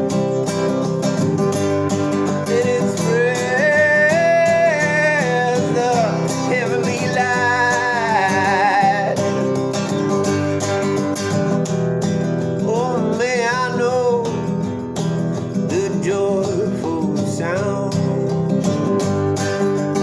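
Acoustic guitar strummed steadily, with a voice singing long, wavering phrases over it in three stretches.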